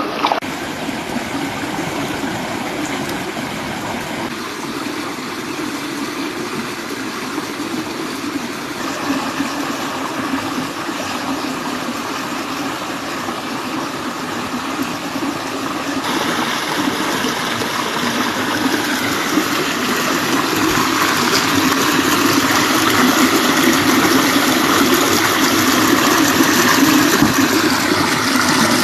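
River water rushing and flowing steadily, its tone shifting abruptly several times and growing somewhat louder in the second half.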